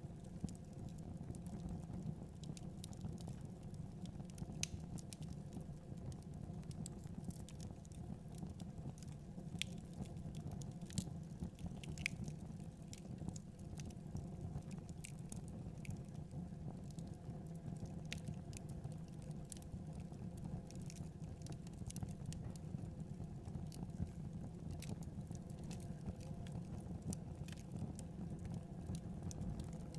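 Wood fire crackling: scattered irregular pops and snaps over a steady low rumble of the flames.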